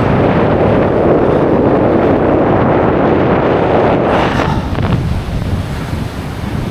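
Strong wind buffeting the microphone over the wash of surf on a beach; the wind noise eases about four seconds in.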